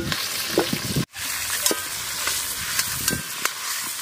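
Cauliflower florets sizzling in hot oil in a wok over a wood fire, with a metal ladle scraping and clinking against the pan as they are scooped out. The sound breaks off for a moment about a second in.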